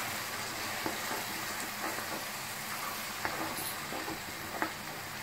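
Onion-tomato masala sizzling gently in oil in a pan while a spoon stirs it, with a few light taps of the spoon against the pan. Tomato purée has just been stirred into the fried onion masala.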